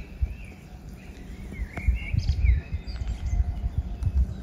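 Small songbirds chirping and warbling in short, twisting phrases, over an uneven low rumble.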